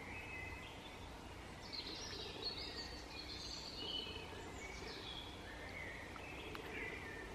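Songbirds singing faintly, a run of varied chirping phrases, over a steady low background rumble.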